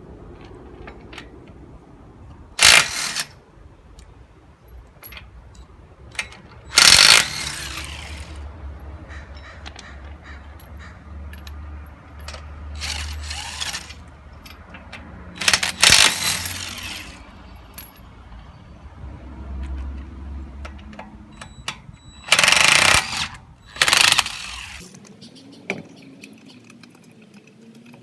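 Lug nuts on a car wheel being loosened and taken off with a wrench: five short, loud rattling bursts a few seconds apart, with smaller clinks and clatter of metal tools in between.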